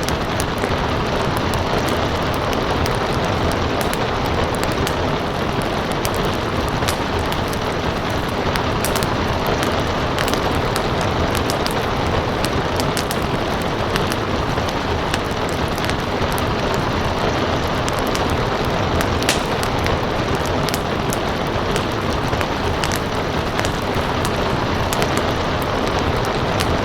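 Steady rain with a wood fire crackling in sharp, scattered pops over it.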